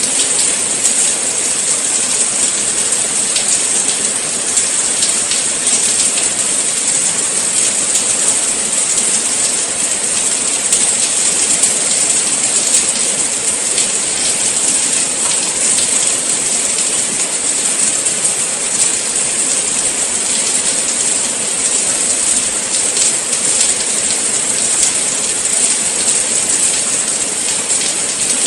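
Steady rain falling, a dense even hiss of many fine drops with no let-up.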